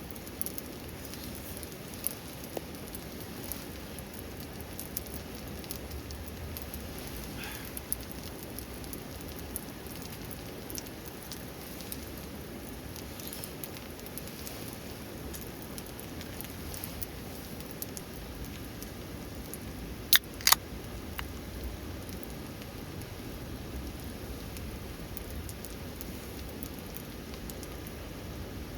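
Steady rain falling, with scattered drops pattering. Two sharp snaps come close together about two-thirds of the way through.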